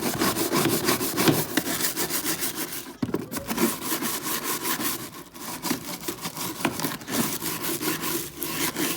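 A brush scrubbing grime off a washing machine in quick, continuous back-and-forth strokes, with short breaks about three and five seconds in.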